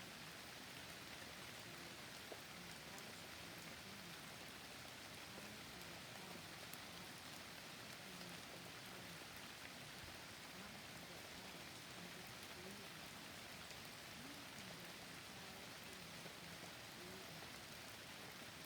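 Steady rain falling in a forest, a soft, even hiss.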